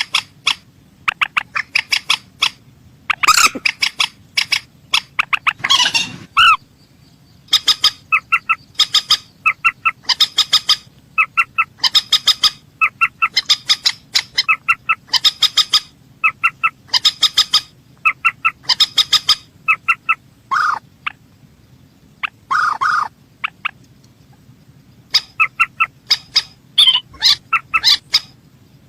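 Calls of the mandar sawah, a rail, repeated over and over as a bird-lure recording: quick clusters of short, sharp, clear notes about once a second, with a few short pauses, over a faint low hum.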